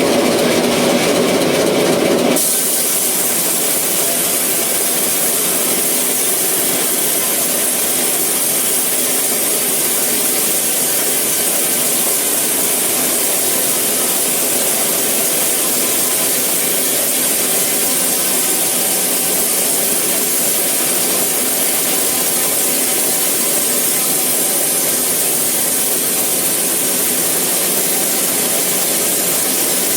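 Sawmill saw running with a low machine hum, then about two seconds in an abrupt change to a steady, high hiss as the blade cuts through a eucalyptus log.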